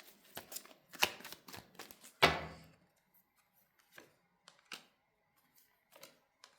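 Tarot cards being shuffled and laid down on a table: a quick run of crisp clicks and slaps, the loudest about two seconds in, then a few faint taps.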